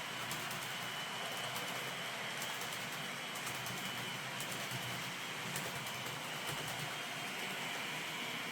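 Model Pendolino train running on the layout's track: a steady rolling hiss with a thin high whine and many faint clicks, the train's sound decoder and wheels on the rails.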